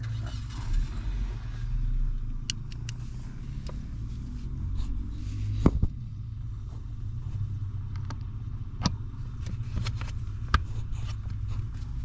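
Scattered clicks, taps and light knocks of hand tools and plastic trim being handled and fitted, with a sharper knock about six seconds in, over a steady low hum.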